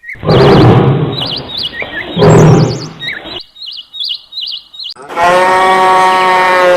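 Birds chirping in quick, wavering trills, over two loud, rough bursts in the first few seconds. About five seconds in, a long, steady animal call begins and holds past the end.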